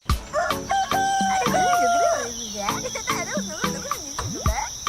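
Animal calls over a steady high insect chirring: a long held crow-like call in the first half, then wavy, warbling calls.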